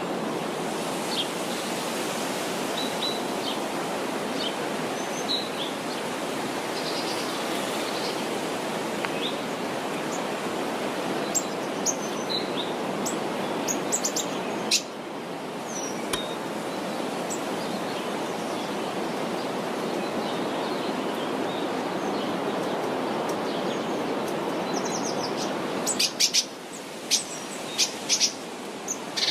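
Wild birds chirping with short, scattered calls over a steady rushing background noise, with a run of sharper, louder chirps near the end.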